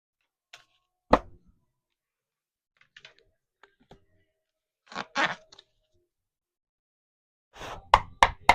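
Tarot cards being handled: a sharp tap about a second in, a brief rustle about five seconds in, and a quick run of taps and rustles near the end.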